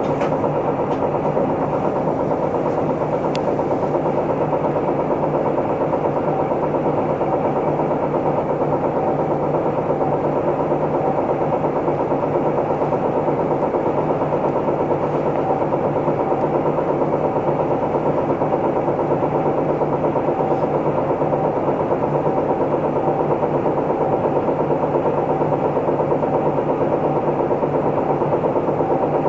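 Isuzu Erga Mio city bus's diesel engine idling steadily, heard from inside the passenger cabin, its pitch even and unchanging throughout.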